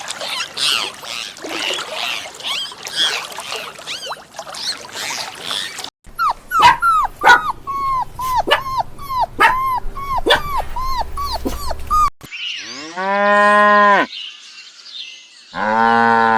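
Animal calls in separate cuts. First a jumble of high, overlapping calls. Then a dog barking in a quick series of short, sharp barks, about two a second. Then a cow mooing twice in long, deep moos, the second running to the end.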